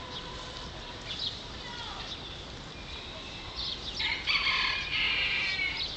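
Birds calling: a few short chirps early, then a burst of busy chattering calls in the last two seconds over a steady background hiss.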